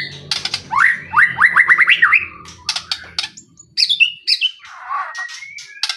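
White-rumped shama (murai batu) in full song: a fast run of rising whistled notes, then sharp clicking notes and falling whistles. A low hum lies under the song for the first half.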